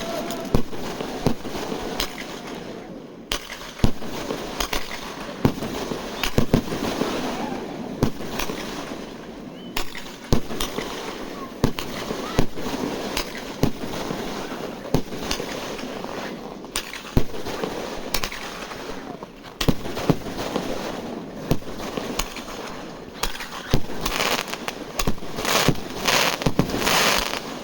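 Fireworks going off: a continuous run of sharp bangs over crackling, with a dense cluster of loud bangs near the end.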